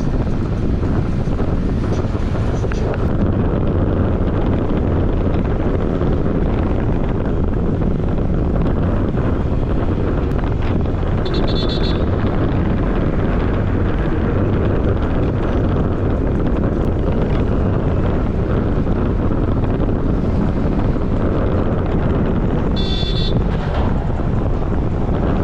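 Wind buffeting the microphone over the steady running and road noise of a Honda PCX scooter on the move. Two brief high-pitched tones sound, about twelve seconds in and again near the end.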